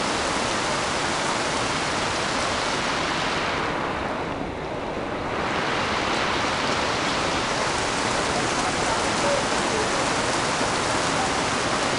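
Heavy rain pouring down in a steady hiss, briefly duller for about a second partway through.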